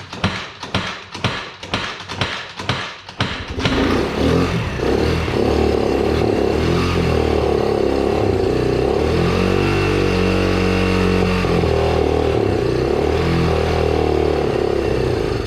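A water-soaked Can-Am engine cranks on its starter with about three beats a second, catches after about three and a half seconds and keeps running, its pitch wavering around the middle. The engine started without starting fluid.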